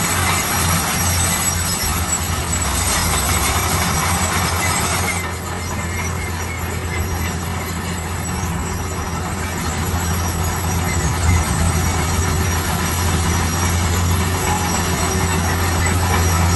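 Heavy diesel construction machinery running with a steady low engine drone, under a loud grinding, rattling noise that eases off about five seconds in.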